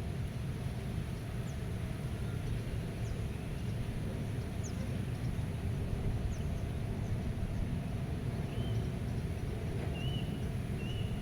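Meadow ambience: a steady low wind rumble with faint high bird chirps every second or so, and a few short warbling bird calls near the end.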